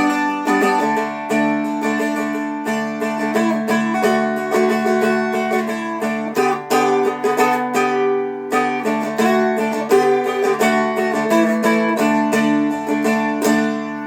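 Seagull Merlin M4, a four-string fretted dulcimer, flatpicked: a quick melody over steadily ringing drone strings, dying away as the last notes ring out near the end.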